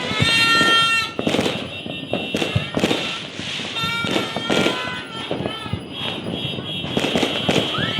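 Fireworks and firecrackers going off in an uneven string of bangs, about two a second.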